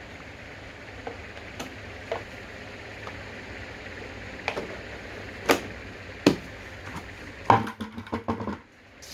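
Irregular knocks and clacks of hard objects being handled, a few spread out and then a quick run of them about three-quarters of the way through, over a steady background hiss.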